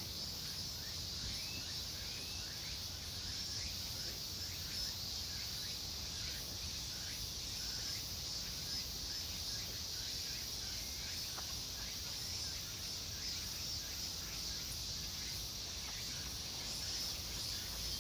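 Steady outdoor insect chorus: a constant high shrilling, with many short rising chirps repeating all through, over a low steady rumble.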